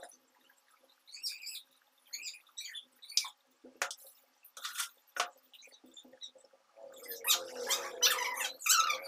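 Birds chirping in short scattered calls, with a louder, busier run of calls about seven seconds in.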